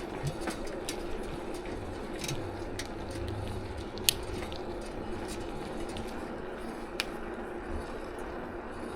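Steady background noise with a low hum, broken by a few sharp clicks, the loudest about four seconds in and another about seven seconds in.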